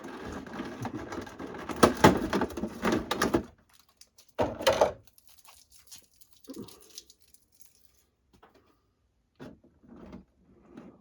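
Packaging being handled and torn open as a boxed miniature is unpacked: a dense stretch of rustling and crackling for about three and a half seconds, one more short loud rustle about a second later, then only faint, scattered handling noises.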